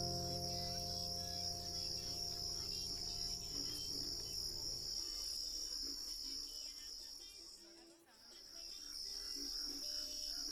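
Steady high-pitched chirring of crickets, unbroken except for a brief dip about eight seconds in. A sustained musical chord fades out under it over the first five seconds.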